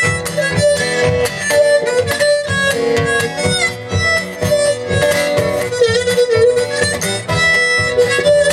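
Harmonica solo over strummed acoustic guitar: held and bent harmonica notes above a steady strummed rhythm.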